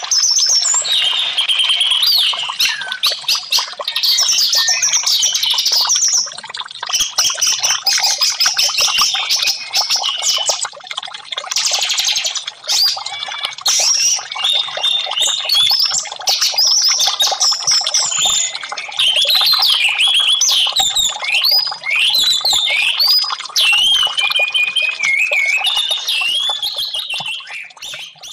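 Orange-headed thrush (anis merah) singing a continuous, varied song of quick whistled phrases, fading out at the end.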